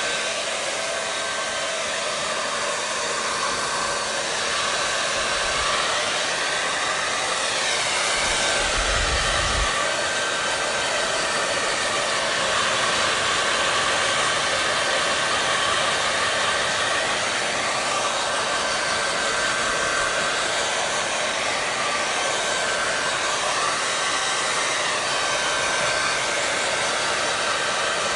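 Hair dryer blowing steadily: a continuous airy hiss with a thin, steady high whine from the motor. Its tone sweeps slowly up and down a few times as the air stream shifts.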